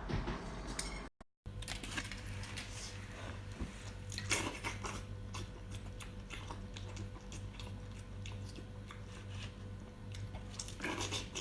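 A person chewing and crunching food close to the microphone, with many small crackling clicks, over a steady low hum. The sound cuts out briefly about a second in.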